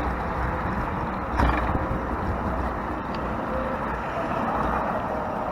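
Steady road traffic noise from passing cars, heard from a bicycle riding alongside a busy road.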